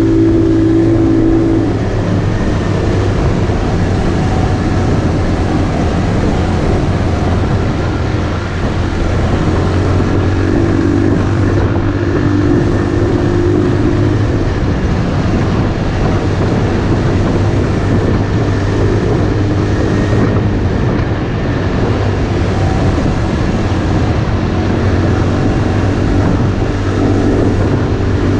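Motorcycle engine running steadily while riding, with its pitch shifting a little now and then, over a constant hiss of noise.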